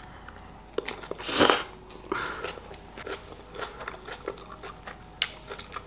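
A person chewing a mouthful of beef burger close to the microphone: soft wet clicks and smacks of chewing, with a short louder rush of noise about a second and a half in.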